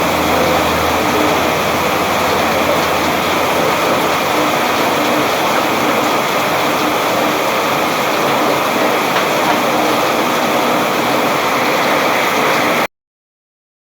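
Steady rain falling, a dense even hiss that cuts off suddenly about a second before the end.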